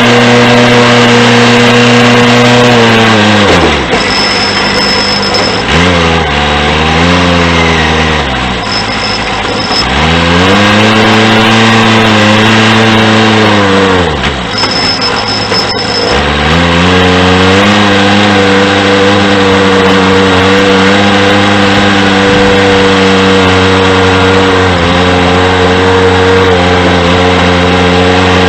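1987 John Deere 210C backhoe loader's four-cylinder diesel engine running at high revs. Twice the engine speed sags and climbs back, first for several seconds and then more briefly, with a thin high whine while it is down.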